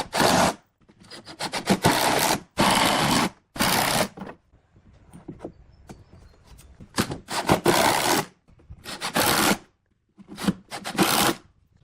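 A hand tool worked in strokes on wood, a rasping, scraping noise in several bursts of half a second to a second each, with short pauses between.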